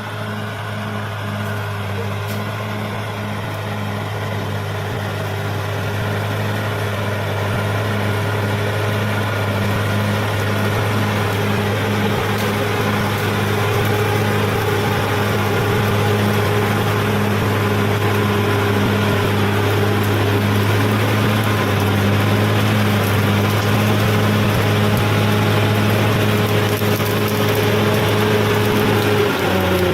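Bulldozer's diesel engine running at a steady speed, slowly growing louder, with the engine note falling away right at the end.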